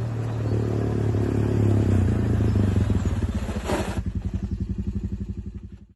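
Honda TRX250 quad bike's single-cylinder engine running, growing louder toward the middle and easing back, its rapid firing pulses distinct near the end. A brief hiss-like burst comes just under four seconds in, and the sound cuts off abruptly at the end.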